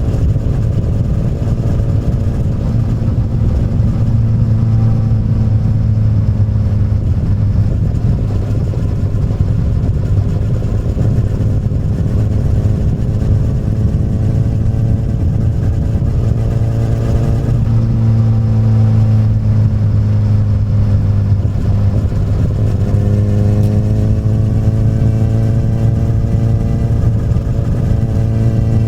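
Exhaust of a 2008 Honda CBR1000RR's inline-four through an Akrapovic carbon slip-on muffler, running steadily on the move, its pitch falling and rising a few times in the second half.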